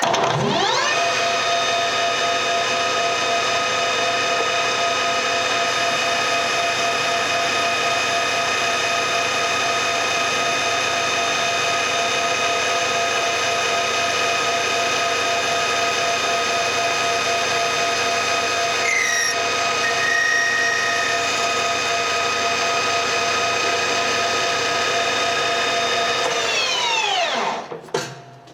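Washino LR55A engine lathe's spindle starting with a rising whine, running steadily with many steady tones, then winding down and stopping near the end. A brief high squeal sounds about two-thirds of the way through.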